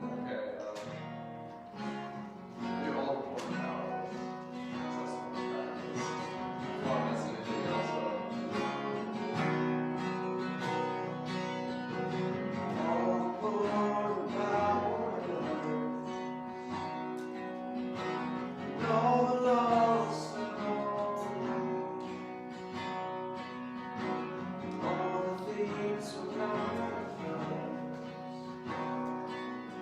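Acoustic guitar strummed and picked, playing a worship song, with a voice singing along at times.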